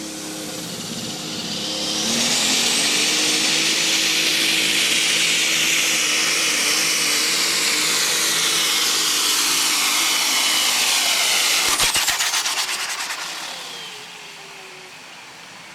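Super stock turbocharged diesel pulling tractor running at full throttle down the track under load from the sled. It swells about two seconds in, holds with a high turbo scream, then a quick run of pops near twelve seconds as the throttle comes off and the sound falls away.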